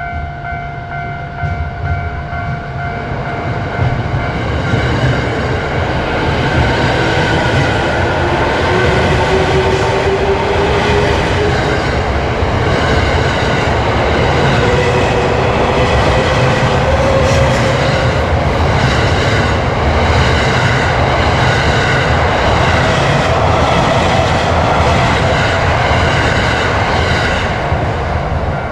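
Japanese electric commuter train passing a level crossing at close range: a loud, steady rumble of wheels on rail, with a whine rising slowly in pitch partway through. A level-crossing alarm rings at the start and fades under the train noise within a few seconds.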